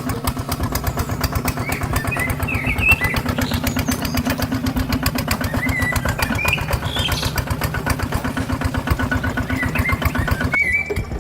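Small engine running steadily with a rapid, even firing pulse, as from a small rice-field tractor at work. Short high chirps sound over it, and near the end the sound changes abruptly to a quieter engine note.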